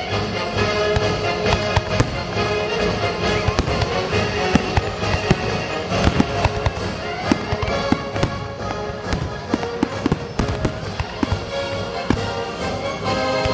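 Fireworks display: many aerial shells bursting and crackling in quick succession, over music playing throughout.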